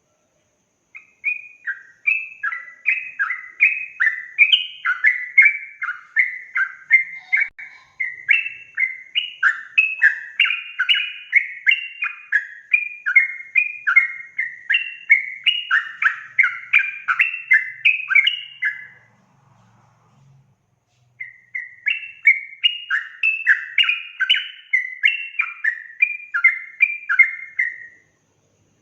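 Yellow-vented bulbul (trucukan) singing a fast, continuous run of short chattering notes around 2 kHz, several notes a second. It breaks off for about two seconds two-thirds of the way through, then resumes.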